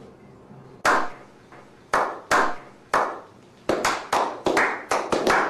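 Slow clap by a small group of men: single hand claps about a second apart, each with a short echo, quickening a little past halfway into faster, overlapping applause.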